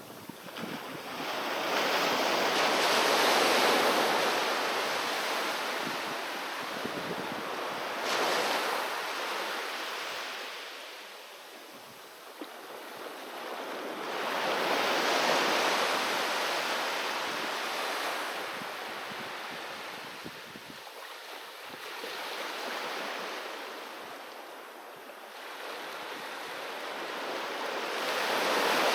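Ocean waves breaking and washing on a beach, the surf swelling and receding in slow surges roughly every six or seven seconds, with a little wind on the microphone.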